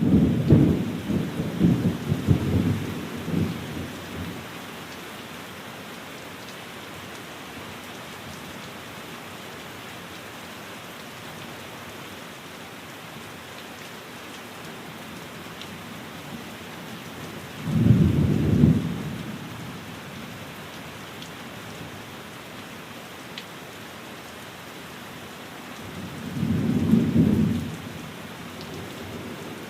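Steady rain with low rumbles of thunder: a long rolling rumble over the first few seconds, another around the middle, and a third near the end.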